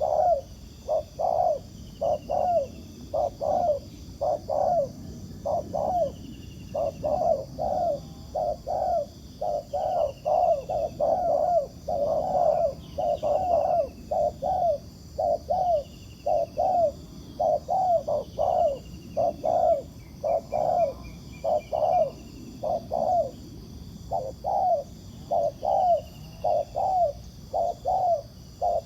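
Spotted doves cooing, a long run of short low coos repeating about twice a second, with small birds chirping faintly and a steady high-pitched buzz behind.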